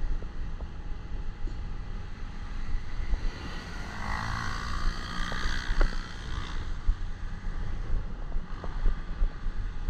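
Motorcycle running at riding speed, a steady low rumble with wind buffeting the microphone. A brighter rushing sound swells and fades over about three seconds midway.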